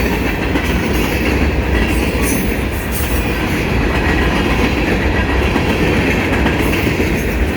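Norfolk Southern freight train's cars rolling past at speed: a loud, steady rumble of steel wheels on the rails, with a few faint sharp clicks.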